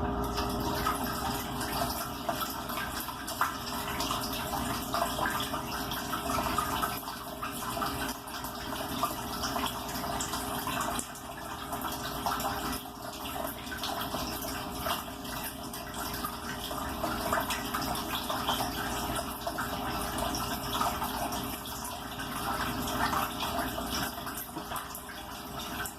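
Water splashing and running in a dishwasher tub, with a steady low hum from the unit underneath.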